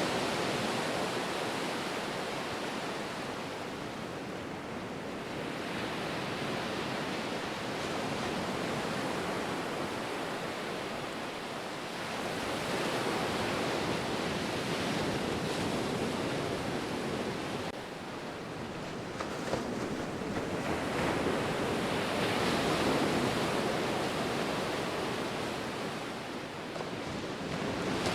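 Ocean surf: a steady wash of breaking waves, swelling and ebbing every several seconds.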